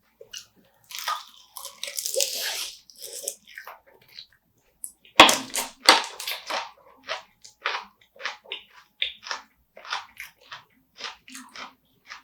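Close-miked eating: wet, squishy mouth sounds in the first few seconds, then a loud crunchy bite about five seconds in followed by a steady run of crunchy chews, about two a second.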